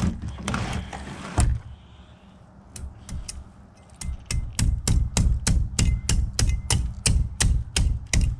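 Butcher knife chopping through an alligator gar's hard armoured scales and back: a few scattered knocks and scraping, then from about four seconds in a fast, even run of chops, about four a second.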